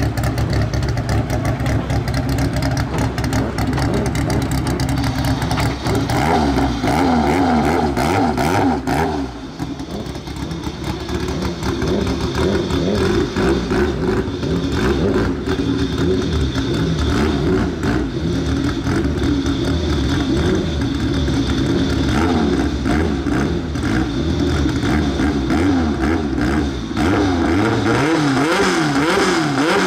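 Engine of a K-series-swapped Honda CRX drag car idling steadily, then revved up and down again and again from about six seconds in while it waits at the line and stages for a run.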